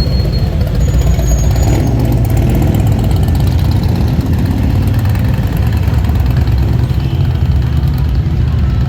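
Motorcycle engine running steadily close by, a continuous low, loud engine note.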